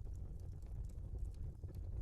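Log fire in a fireplace crackling: a steady low rumble of burning with irregular sharp pops and snaps scattered through it.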